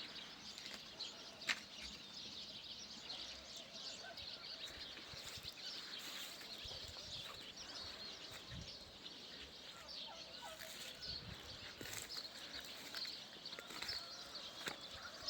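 Small birds chirping, many short high chirps scattered throughout over a faint steady outdoor background.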